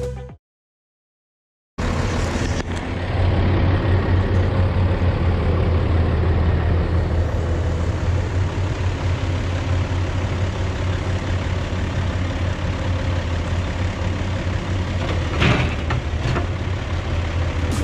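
Log truck running steadily, with a low engine drone under an even wash of road noise, starting about two seconds in after a moment of silence. A couple of brief clicks come near the end.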